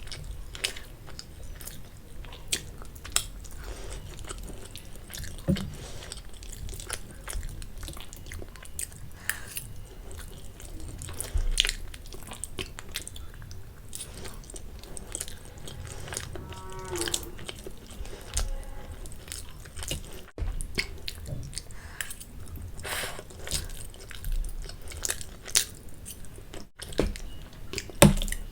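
Close-up mouth sounds of a person eating a meal of spicy Maggi instant noodles with boiled eggs: chewing and biting, with many irregular small wet clicks.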